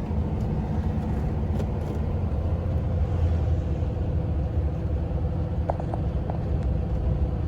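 Steady low rumble of a Volvo truck's diesel engine and tyres, heard inside the cab while driving downhill.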